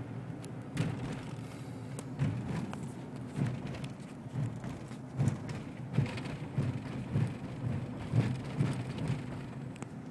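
Rushing floodwater: a steady low rumble, with irregular louder thumps and surges.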